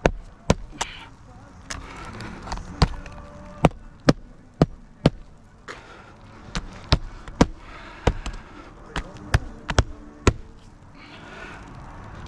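Hammer striking on a shingle roof: about sixteen sharp, irregularly spaced blows, which stop a couple of seconds before the end.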